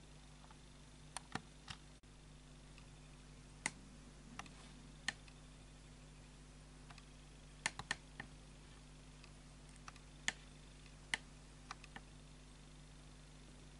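Bosch WAB28220 washing machine early in a quick wash cycle: a faint steady hum with a dozen or so scattered sharp clicks and ticks at irregular intervals.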